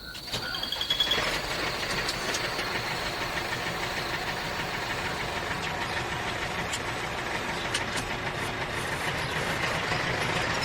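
A small motor running steadily with a fast knocking rattle; it starts up about half a second in.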